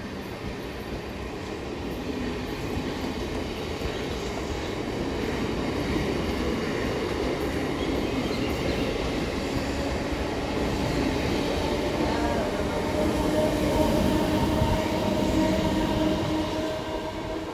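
MEMU electric multiple-unit train coaches running past along the platform, with a steady rumble and clatter of wheels on rail that grows louder. In the last few seconds a steady whine rises over it.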